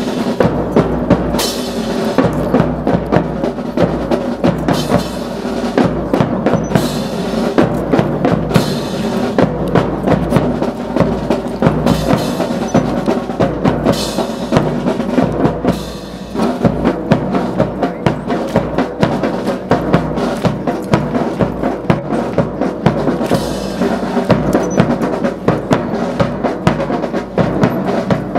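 Military drum corps playing snare and bass drums in a brisk, continuous marching beat, with rolls and a steady pitched band accompaniment.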